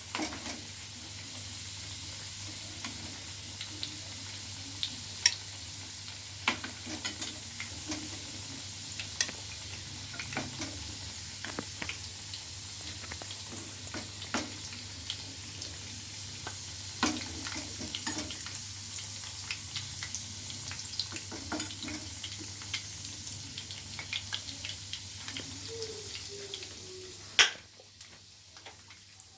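Chicken kofta sizzling as it fries in hot oil in a pan, with scattered sharp taps of a spoon against the pan as the pieces are turned and lifted out. Near the end comes one loud knock, and the sizzling drops away.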